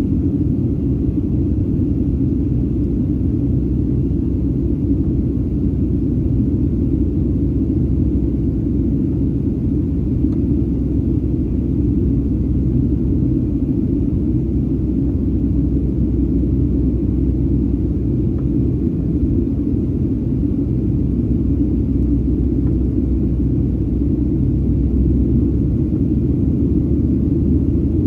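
Steady, loud low rumble of a Boeing 737-800's CFM56 engines and airflow, heard from inside the passenger cabin.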